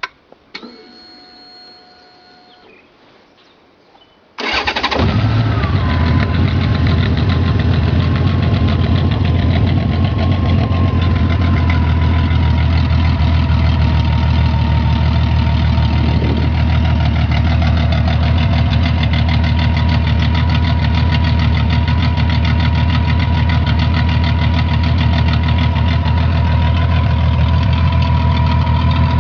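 Honda Rune's 1800 cc flat-six started about four seconds in, catching at once, then idling steadily through fully open exhausts with all internal baffles removed: a deep, fairly loud tick-over. A few faint clicks and a brief faint whine come before the start.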